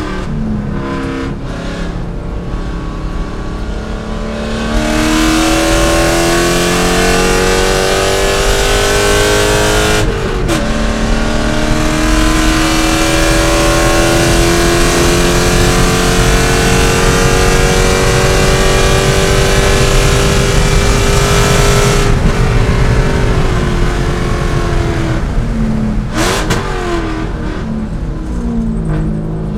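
C5 Corvette V8 racing: the engine pulls hard with a slowly rising pitch, shifts up about ten seconds in, then pulls through a long stretch before the driver lifts off about twenty-two seconds in. Short throttle blips follow near the end, as on downshifts under braking.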